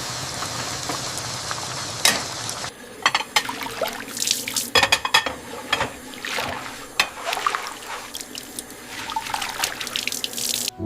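Water from a tap running into a sink. It runs as a steady stream for the first few seconds, then turns into irregular splashing.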